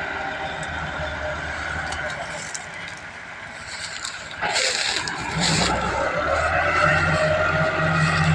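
Tractor engine running steadily. It fades slightly, then a couple of short hisses come about halfway through, and the engine grows louder again after that.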